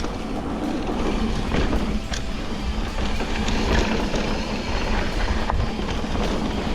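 Steady wind and road noise from riding a bike, heaviest in the low rumble, with a few small clicks and rattles scattered through.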